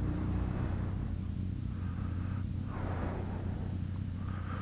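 Motorcycle engine idling steadily, a low even rumble, with faint background chatter.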